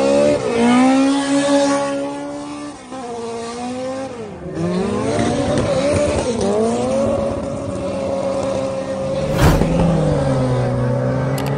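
Street-racing car's engine revving hard: its pitch climbs and drops back several times as it accelerates through the gears, then it holds a steady high drone. A short burst of noise near the end is the loudest moment.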